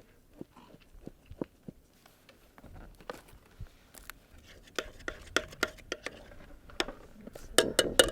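A series of irregular sharp clicks, taps and snaps from something being handled, sparse at first, then louder and closer together in the last three seconds.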